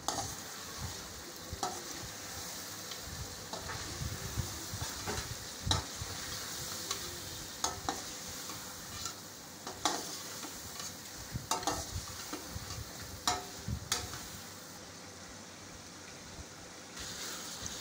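Mutton, tomatoes and spices sizzling in hot oil in a metal karahi as the masala is fried down (bhuna). A slotted metal spoon stirs and scrapes against the pan, with irregular clinks about every second. The stirring and sizzle ease off for a couple of seconds near the end.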